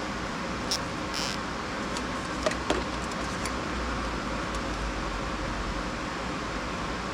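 Steady mechanical hum, with a few light clicks and taps about a second in and again near three seconds.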